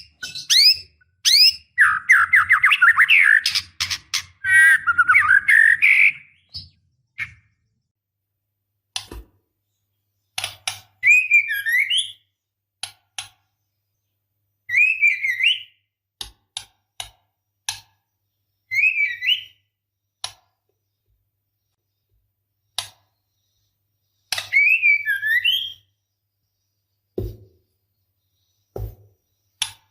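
Female white-rumped shama calling: a dense run of quick gliding whistles about two seconds in, then short whistled phrases roughly every four seconds, with sharp clicks in between. These are the calls of a female in breeding condition summoning a male.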